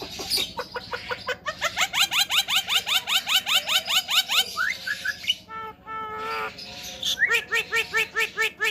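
Javan myna calling: a rapid run of short, rising squawking notes, broken a little past halfway by a brief held, whistle-like phrase, then another quick run of rising notes near the end.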